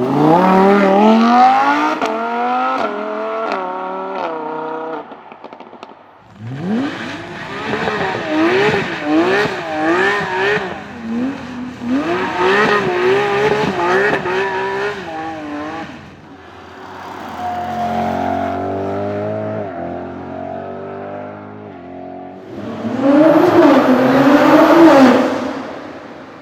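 Supercar engines revving hard in a run of separate short clips: a full-throttle acceleration with the pitch climbing and dropping back at each upshift, then a string of quick throttle blips, a lower steadier run, and a loud rev that rises and falls near the end.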